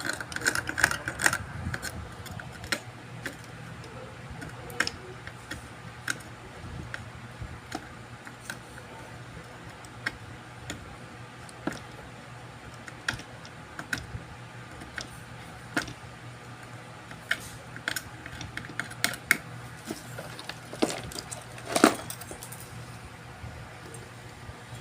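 Small tools and circuit-board parts being handled at a repair bench: scattered light clicks and taps, with a louder clatter near the start and about three seconds before the end, over a low steady hum.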